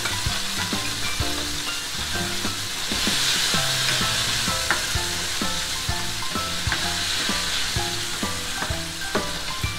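Chicken pieces and sliced onion sizzling in hot oil in a nonstick frying pan, with a spatula scraping and knocking against the pan as they are stirred. The sizzle gets louder about three seconds in.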